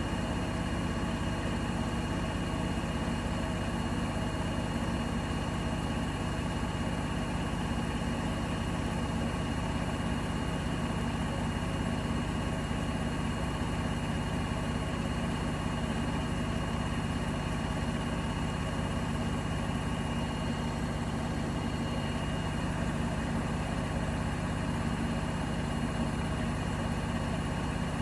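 Bosch Serie 4 (WAK20260TR) washing machine running with a steady, even hum and faint steady high-pitched whines over it.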